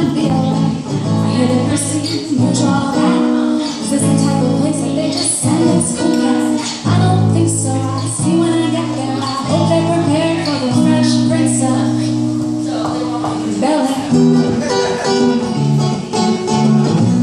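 Live music with a plucked guitar and held, changing low notes.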